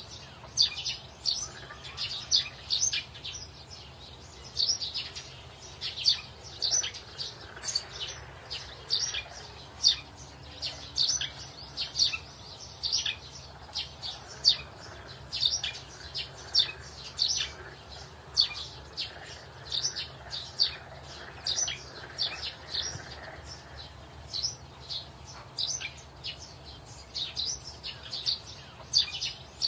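Birds chirping: many short, high chirps, a few each second, over a faint low hum.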